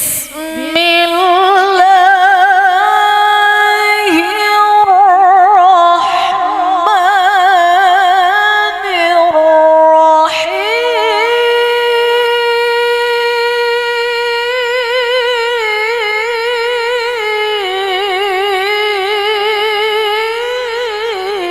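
A woman's voice reciting the Quran in the melodic tilawah style: long held notes with quavering ornaments, broken now and then by brief pauses.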